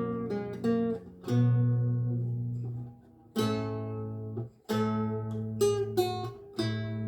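Renaissance lute with gut strings, played slowly by plucking: chords and single notes, each left to ring and die away. There is a brief pause about three seconds in.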